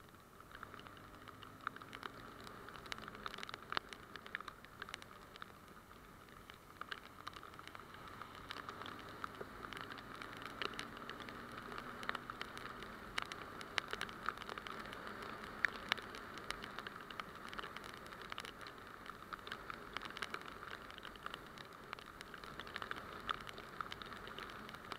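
Rain drops striking a motorcycle-mounted camera: a steady hiss with many small irregular ticks. A faint engine hum lies underneath.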